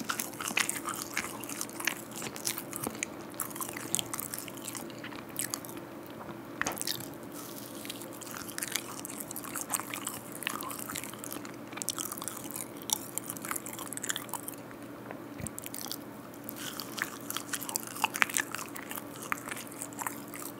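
Close-miked mouth sounds of biting and chewing a soft cheese soufflé cake: a steady stream of small wet clicks and smacks.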